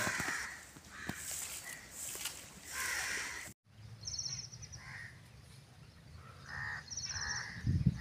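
Outdoor birds calling: short, spaced calls, a brief break to silence a little past the middle, then two quick high trills among further short calls.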